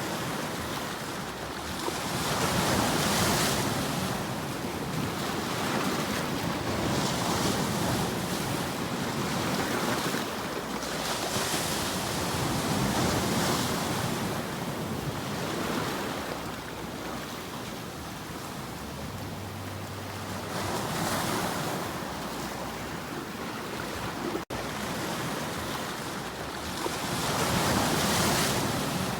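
Ocean waves washing ashore, a steady surf noise that swells and fades every few seconds, with wind.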